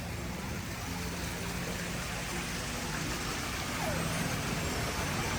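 Tour boat's motor running with a steady low hum under an even background rumble as the boat moves along the canal.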